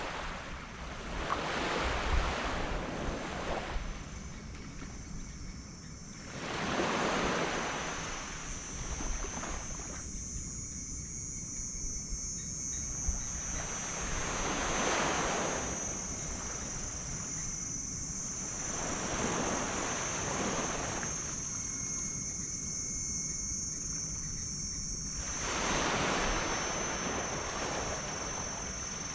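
Small tropical waves breaking and washing up a sand beach, each surge of surf swelling and fading every few seconds. A steady high-pitched hiss runs underneath and grows stronger after the first third.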